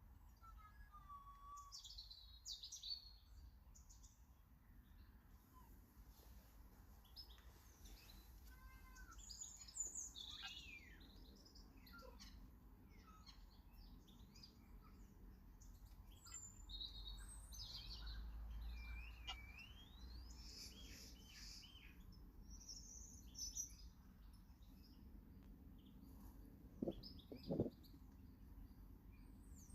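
Faint garden birdsong: small birds chirping and calling on and off, with short chirps and an occasional gliding call. Two short knocks sound close together near the end.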